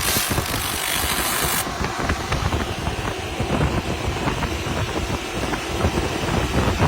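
Continuous-wave laser cleaning machine working on rusty metal: a steady low rumble with rapid crackling ticks, and a loud hiss that stops abruptly under two seconds in.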